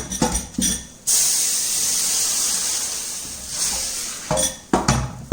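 Steak and oil in a very hot frying pan sizzling: a loud hiss that starts suddenly about a second in, holds for a couple of seconds and dies away. Clinks of a metal utensil against the pan and plate come before and after it.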